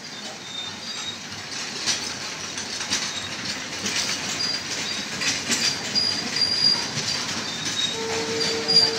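Passenger train carriages rolling past a station platform: wheels clicking over the rail joints with short high-pitched squeals, the sound growing louder. A steady tone joins near the end.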